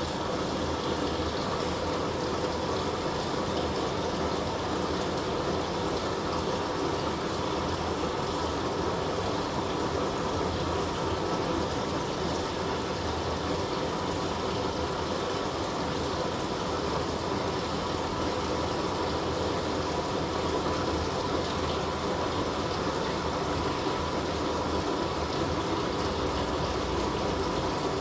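Water pouring steadily into the tub of a Living & Co 5.5 kg top-loading washing machine as it fills, with a faint steady hum from the inlet valve or motor.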